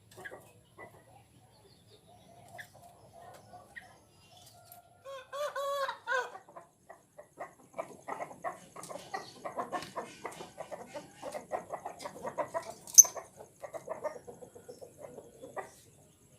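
Caged birds calling: a drawn-out call with a bending pitch about five seconds in, followed by a long run of short, rapid, clucking calls. A single sharp click about three-quarters of the way through is the loudest event.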